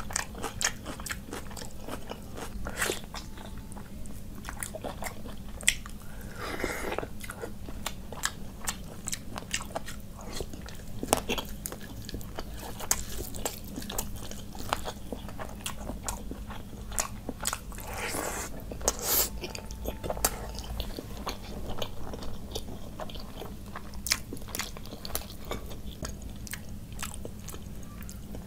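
Close-miked mouth sounds of a person eating curry and rice by hand: a continuous run of wet chewing, biting and smacking clicks, with a few longer moist stretches.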